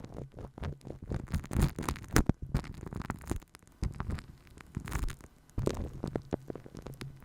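ASMR microphone being massaged and tapped by hand: irregular soft rubbing, scratching and patting sounds with scattered sharp clicks.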